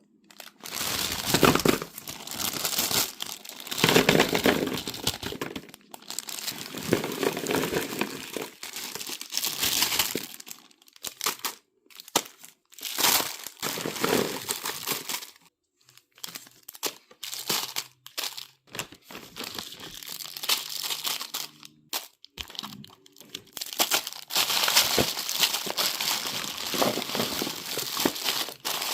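Crinkly plastic candy wrappers being handled and torn open, in repeated bursts of crackling with short pauses between them.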